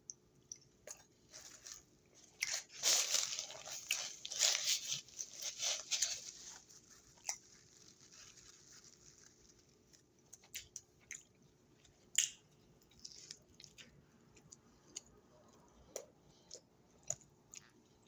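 A person chewing and crunching on food close to the microphone. The crunching is densest and loudest for a few seconds about two and a half seconds in, then gives way to scattered small clicks and mouth sounds.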